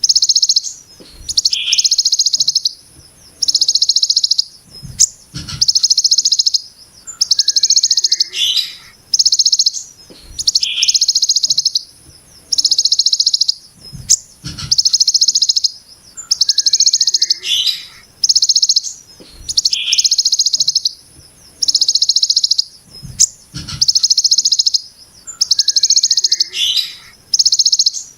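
Ciblek gunung giving its harsh, dense 'brem' buzz call over and over: buzzy bursts about a second long come roughly every second and a half, with short lower notes between them. A few low knocks sound along with the calls.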